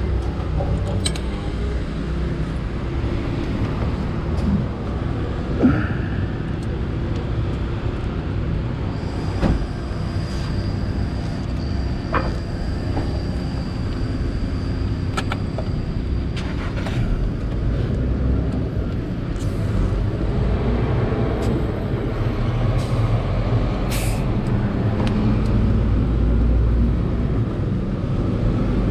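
Yamaha FZ6 motorcycle with a LeoVince aftermarket exhaust running under way, a steady engine and exhaust note that grows louder and deeper over roughly the last ten seconds, with a few short clicks.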